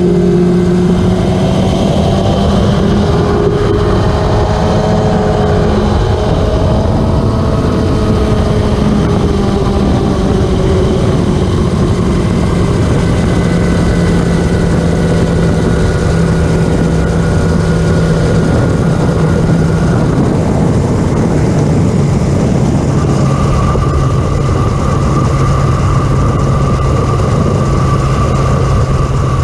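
Classic superbike racing motorcycle engines running together, several pitches sliding up and down over one another at first, then holding steadier, with a new steady high engine note coming in about two-thirds of the way through.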